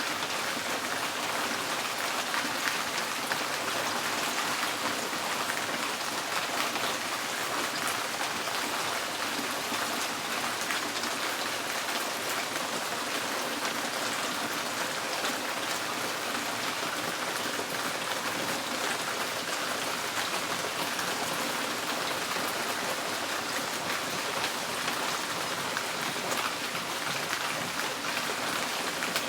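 Steady rain falling on a tin porch roof, a dense even patter of drops on the metal.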